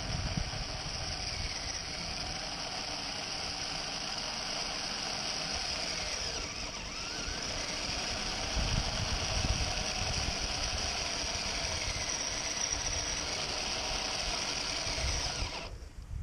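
Kyosho Blizzard RC snowcat running on its metal tracks, a steady mechanical drive-and-track noise. It drops away briefly at the very end.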